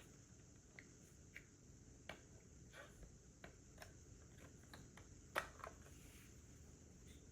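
Faint, irregular plastic clicks of LEGO bricks being handled and pressed together, about a dozen in all, the loudest a little past five seconds in, over near silence.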